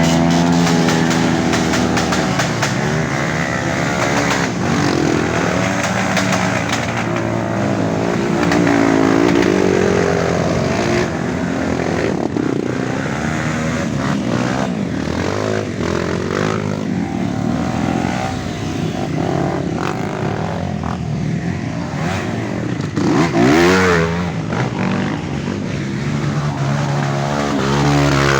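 Several off-road trail motorcycles revving hard through a mud bog, their engine notes rising and falling and overlapping.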